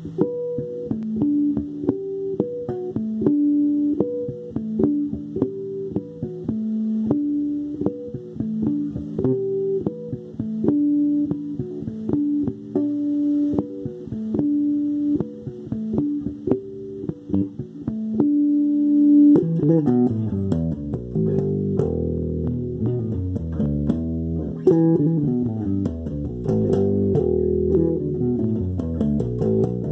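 Guitar playing, with plucked notes in a single-line melody. About two-thirds of the way in, fuller, lower notes join in and the playing thickens.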